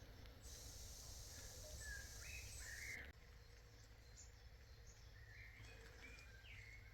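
Faint outdoor ambience: small birds chirping intermittently over a low rumble, with a steady high hiss for the first few seconds.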